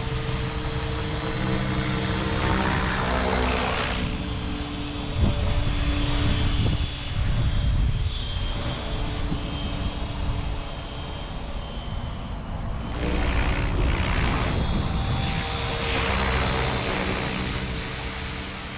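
Align T-Rex 700E electric RC helicopter in flight: a steady whine from the motor and drive with the whoosh of the main rotor blades, growing louder and softer several times.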